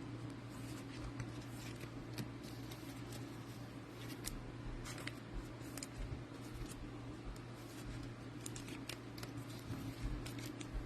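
Trading cards being handled and sleeved: faint scattered rustles and light clicks of card stock and plastic, over a steady low hum.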